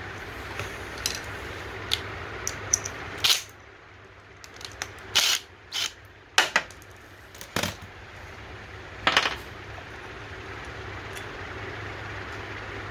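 Hand tools and metal parts clinking and knocking as the carburetor is taken off a Honda GCV190 mower engine: about a dozen sharp, separate strikes at uneven intervals over a steady background hum, which drops away for a few seconds in the middle.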